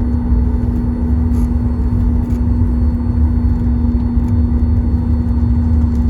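Cabin noise inside a Boeing 737 MAX 9 taxiing after landing: a steady low rumble with a constant hum from the engines and airframe.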